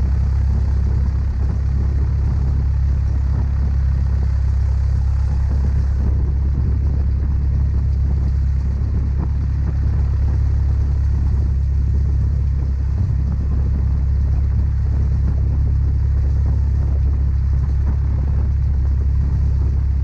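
Cessna 172's piston engine and propeller running at low taxi power: a steady, loud low drone that does not change.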